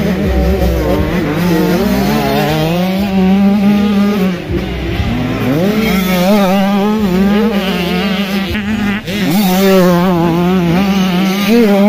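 Motocross bike engines revving hard, several at once, their pitch rising and falling with throttle and gear changes; the revs drop briefly and climb again about four seconds in and about nine seconds in.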